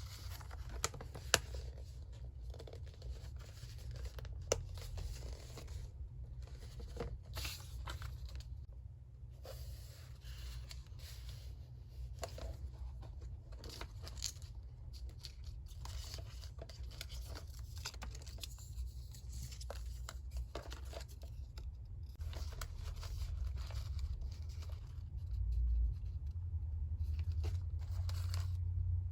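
Paper being handled for a collage: pieces of paper tearing, rustling and crinkling, with scattered small ticks and taps. A steady low hum runs underneath and grows louder near the end.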